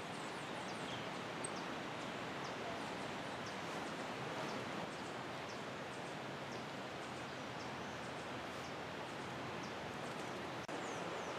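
Steady outdoor background hiss with faint, short high-pitched bird chirps scattered through it, about one every second.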